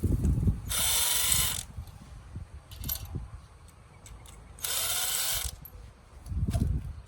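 Power tool running in two bursts of about a second each, spinning out bolts while the motorcycle's clutch side is taken apart. Low clattering of parts falls between the bursts.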